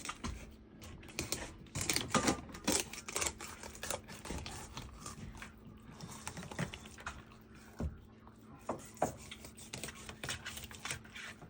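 Irregular clicks and taps of a fillet knife cutting lake trout on a cutting board, over a faint steady hum.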